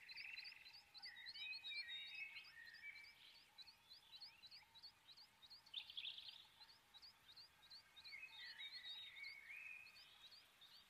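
Faint birdsong: a short high chirp repeated about four times a second, with warbling calls from other birds coming and going over it and a brief louder flurry about six seconds in.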